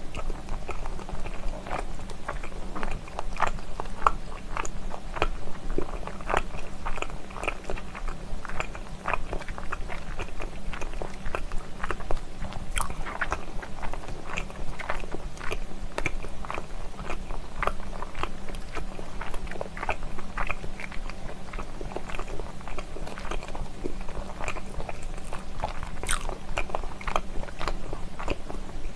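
Close-miked chewing of stir-fried pork skin: wet, sticky mouth smacks and clicks, several a second throughout, over a steady low hum.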